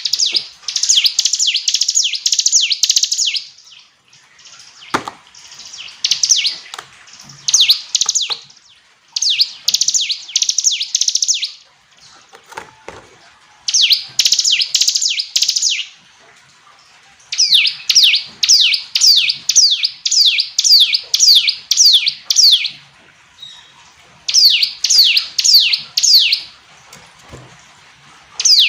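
Ciblek gunung (a prinia) singing: loud phrases of quick, sharp down-slurred chips, each phrase a few seconds long with short pauses between, and a couple of faint low knocks in the gaps.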